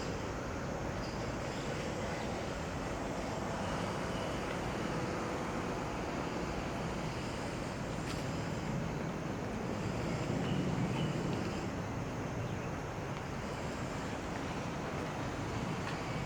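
Steady harbour waterfront ambience: a low rumble with wind and water noise, swelling slightly about ten seconds in.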